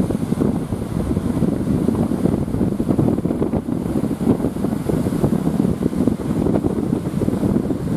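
Strong wind buffeting the microphone in a steady rumble, over the rush of surf.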